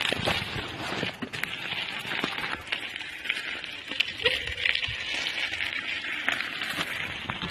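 Bicycle tyres rolling over a dirt woodland trail, with a steady crunching hiss and irregular clicks and rattles from gravel, twigs and the bike itself. A brief squeak sounds about four seconds in.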